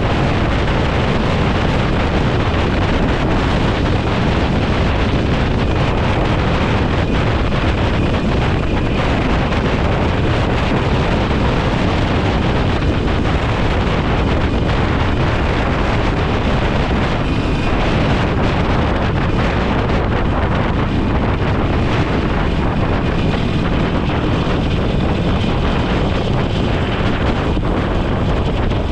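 Steady wind rushing over the microphone of a moving motorcycle at road speed.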